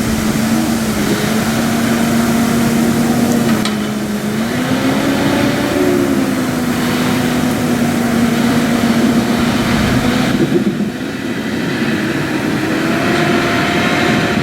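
John Deere 6155R tractor engine running under load while buckraking silage, its engine speed holding steady, dipping and rising again as the tractor works the pit.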